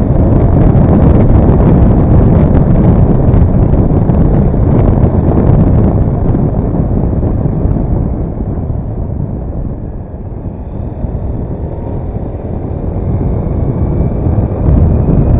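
Wind buffeting the microphone over the engine and road noise of a Daelim S3 scooter being ridden at speed. The noise eases about two-thirds of the way through, then builds again with a faint rising whine near the end.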